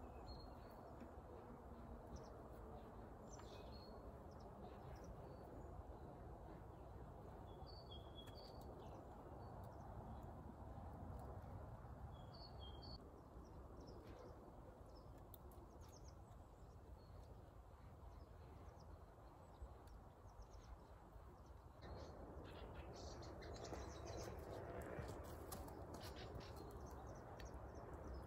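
Small birds chirping in short, scattered calls over a faint, steady outdoor background hiss. Near the end, rustling and a run of light clicks come in close by.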